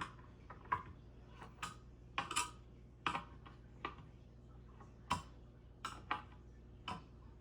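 Irregular light clicks and clinks of ceiling fan parts being handled: about a dozen small knocks spread unevenly across several seconds.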